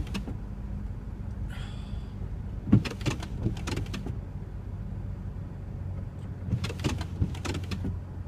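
Steady low rumble of a car's engine and tyres heard from inside the cabin while driving slowly, with a few brief knocks and rattles about three seconds in and again near the end.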